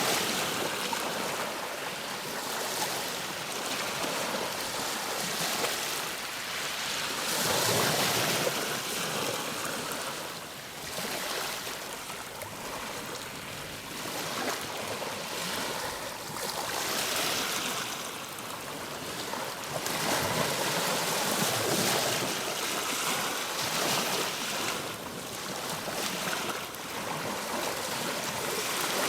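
Ocean waves washing onto a shore, a steady hiss of surf that swells and falls back every few seconds.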